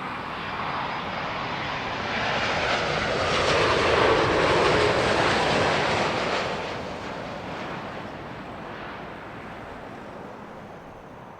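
Jet airliner on final approach passing low overhead: a broad engine rush that swells, peaks about halfway through and slowly fades.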